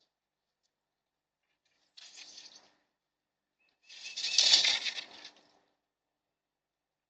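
Birds' wings flapping in two short flurries as they take off from a bird feeder; the second flurry, a couple of seconds later, is louder and longer.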